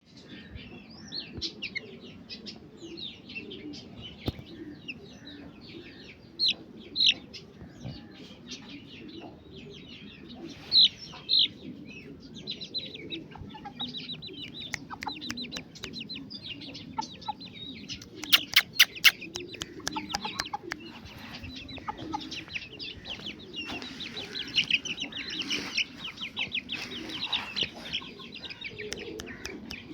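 Aseel chickens clucking, with many short high calls, a few of them louder. A quick run of sharp clicks comes about eighteen seconds in.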